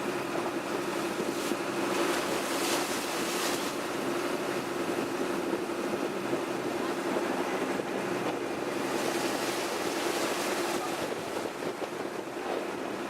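Tour boat's engine running steadily with a constant drone, under the rush and splash of water along the low-riding hull of the overloaded boat, its tyre bumpers dragging in the water. The splashing swells about two seconds in and again around nine to eleven seconds.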